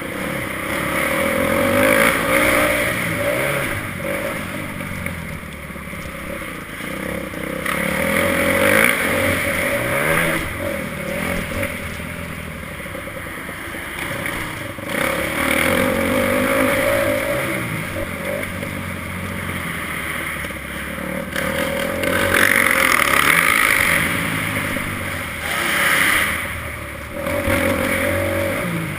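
Motocross bike engine running hard around a track, revving up and easing off over and over, swelling in loudness every few seconds.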